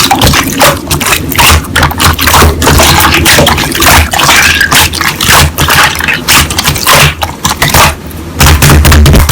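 Slime being squeezed and pressed by hand close to the microphone: wet squishing with rapid clicks and crackling pops.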